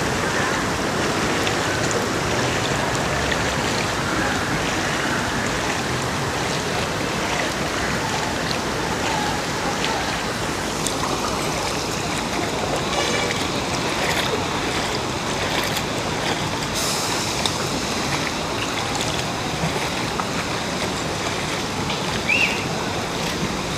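Steady rush of flowing floodwater, an even noise with no let-up, with a brief high-pitched sound near the end.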